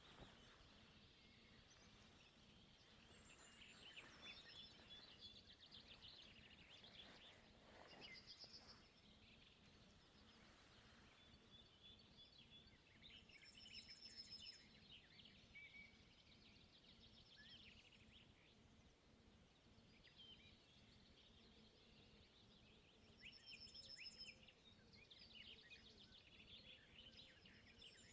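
Faint chatter of small birds: many short, high chirps and twitters overlapping, with a few clearer high trilled notes now and then.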